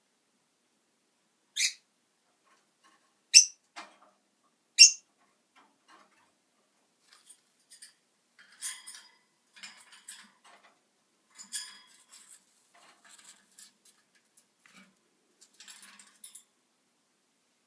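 Green-cheeked conure giving three short, sharp, high-pitched chirps about a second and a half apart, followed by faint scattered clicking and rustling.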